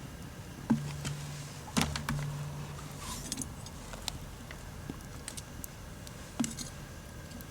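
Metal camp cookware being handled: four sharp clinks and knocks, spread out, with a light metallic rattle between them. A low steady hum runs under the first few seconds.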